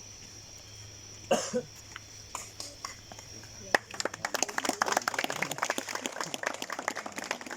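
A single cough about a second in, then from about four seconds a group of people clapping, dense irregular claps that run on to the end, over a steady chirring of crickets.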